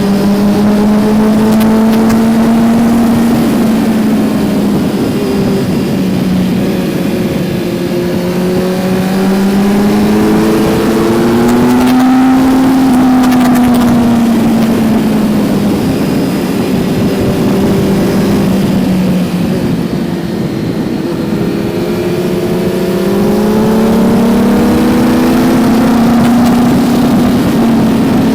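Kawasaki Z900's inline-four engine heard from on board while riding. Its pitch rises and falls as the throttle is opened and eased off, with a dip about two-thirds of the way through before it pulls again, over a steady rush of wind and road noise.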